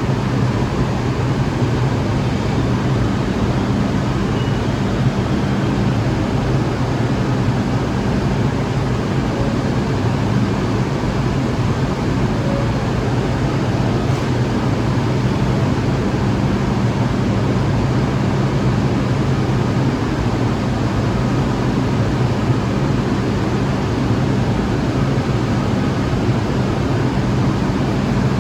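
Steady loud rumble with a low hum from a New York City subway train in the station, unchanging throughout.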